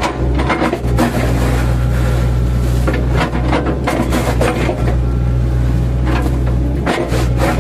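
Mini excavator's diesel engine running steadily under load, with repeated knocks and crunches as the bucket chops into an oil palm trunk to cut it into thin slices.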